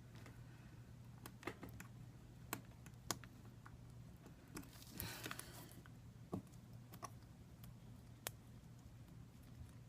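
Faint, scattered light clicks and taps of small tools and parts being handled during a tablet repair, with a short scraping sound about five seconds in.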